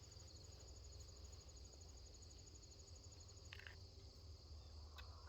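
Quiet background with a steady, high insect trill, one pulsing element of which stops about three seconds in. A brief faint chirp comes about three and a half seconds in.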